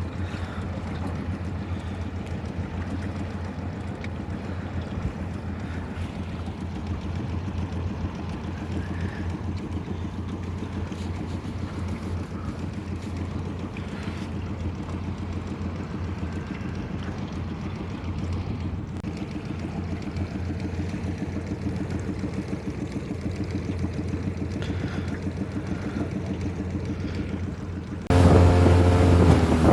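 Honda 20 hp four-stroke outboard running steadily, pushing a small aluminum boat under way. Near the end it turns suddenly louder, with its engine tones standing out more clearly.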